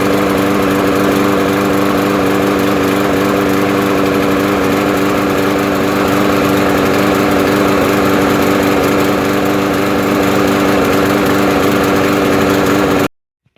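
Lawn mower engine running at a steady speed, then cutting off abruptly near the end.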